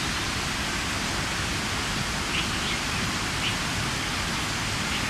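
Steady rushing noise with no pitch to it, with a few faint, short, high bird chirps around the middle.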